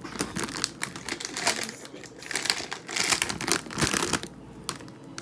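Bags of chips being handled: their plastic crinkles and rustles amid quick irregular clicks and taps, loudest about three to four seconds in.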